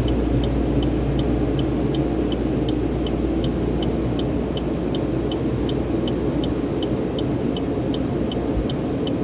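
Steady rumble of automatic car wash tunnel machinery, with a rapid, even high-pitched ticking, about four ticks a second.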